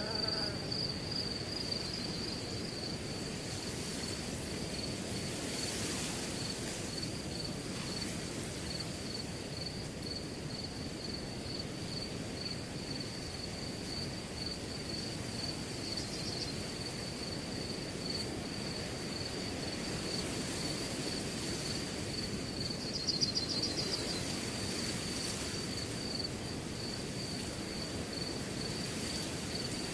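Crickets chirping in a steady, fast, even pulse over a continuous wind noise in grass, with a louder burst of chirping a little over three quarters of the way through.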